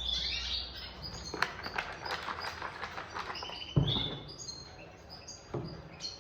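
Small aviary birds chirping and twittering in short high calls, with a run of sharp clicks partway through and a loud thump about two-thirds of the way in.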